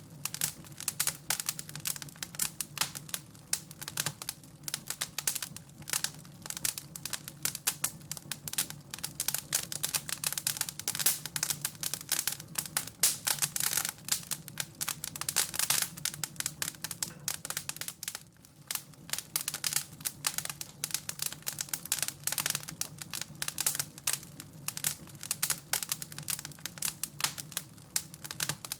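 Wood fire in a fireplace crackling and popping irregularly and continuously, with a low steady hum underneath.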